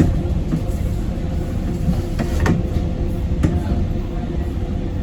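Docklands Light Railway train running, a steady low rumble of wheels and motors heard from inside the carriage, with two sharp clicks about two and a half and three and a half seconds in.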